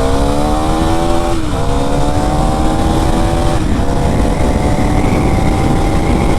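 KTM Duke 390's single-cylinder engine pulling hard at high revs as the motorcycle accelerates, its pitch rising in each gear with two upshifts, about a second and a half and nearly four seconds in. Heavy wind rumble on the microphone underneath.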